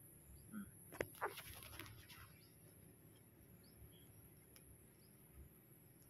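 Near silence with a few faint, short bird chirps scattered through it. There are a few soft clicks in the first two seconds.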